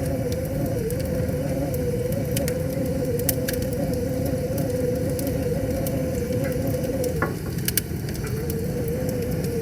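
Wood fire crackling, with scattered sharp pops over the steady rushing of river water. A wavering, whistle-like tone runs under it, breaking off briefly about seven seconds in.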